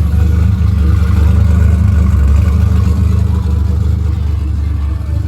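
Car engine running with a loud, steady low rumble, swelling slightly in the middle.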